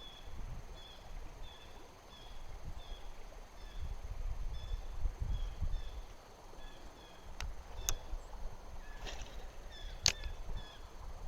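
Outdoor ambience: a short, high chirp repeating steadily about twice a second, over a low wind rumble on the microphone, with a few sharp clicks in the second half.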